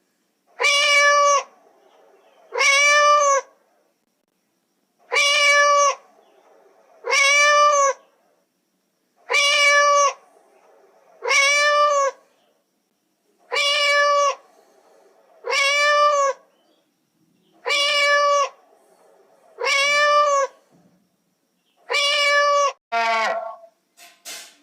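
A cat meowing: ten long meows, each rising then falling in pitch, in pairs about four seconds apart, then a shorter call near the end.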